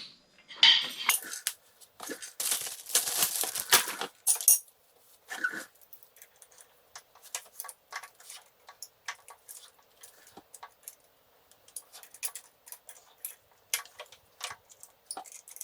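Tools and small steel parts clinking and rattling as the clutch spring adjuster nuts are taken off a BSA B33's clutch. There is a run of loud metallic clatter over the first four seconds or so, then scattered light clicks and ticks.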